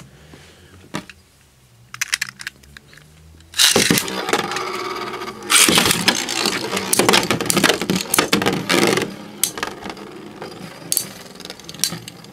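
Two metal Beyblade spinning tops launched into a plastic stadium about three and a half seconds in, then spinning and clashing with dense sharp metal-on-metal clicks and knocks, busiest in the middle and thinning toward the end as the battle winds down.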